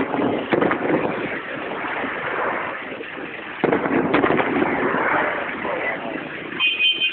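Fireworks going off: several sharp bangs, one about half a second in and another pair a little before and after four seconds, over steady loud background noise. A brief high whistle sounds near the end.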